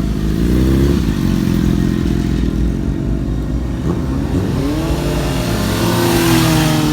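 Small motorbike engine revving: the pitch climbs, drops back about four seconds in, then rises again and holds high before easing off near the end.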